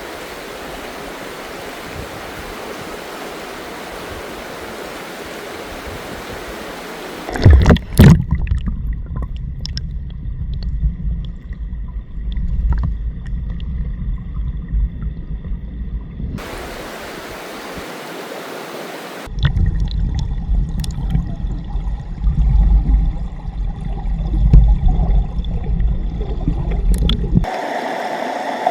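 Mountain stream flowing with a steady rush. About seven seconds in, and again from about nineteen seconds, loud low rumbling with sharp knocks takes over, right at the microphone.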